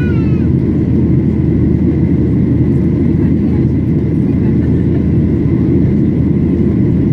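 Steady in-flight cabin noise of a Boeing 737-800 heard from a window seat: a loud, even rumble of its engines and the airflow, with a thin steady high tone above it.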